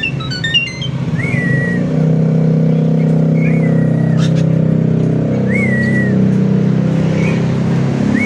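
A Javan pied starling gives a quick run of chirps, then single short whistles that rise and then fall, a couple of seconds apart. From about two seconds in, a louder, steady low drone of a motor vehicle's engine running sits beneath the bird.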